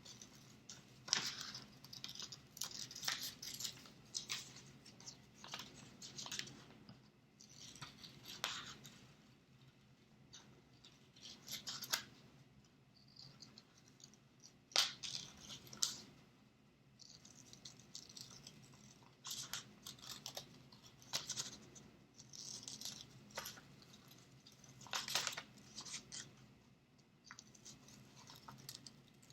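Scissors cutting through paper: a long run of short, crisp snips at irregular intervals.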